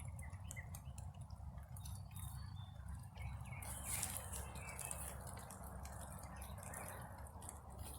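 Rain dripping and pattering in a garden, scattered drops ticking irregularly over a soft steady wash of rain.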